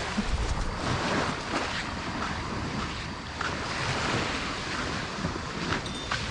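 Light surf washing on the beach, with wind buffeting the microphone.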